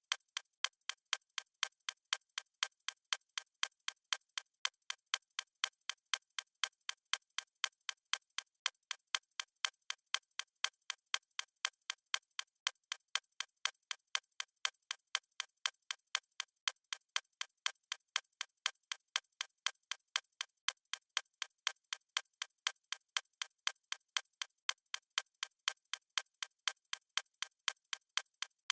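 Stopwatch ticking sound effect: fast, even, crisp ticks, several a second, keeping a steady pace.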